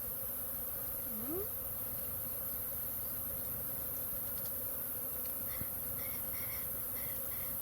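A swarm of wild bees buzzing, a steady, dense hum, disturbed by a man raiding their hive. Near the end a short chirp repeats about twice a second.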